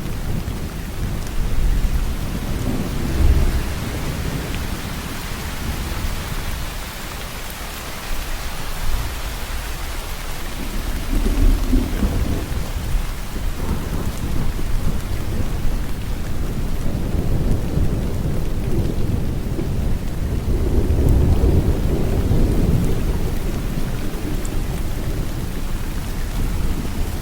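Steady rain falling, with low rolling thunder swelling up at times, strongest around the last third.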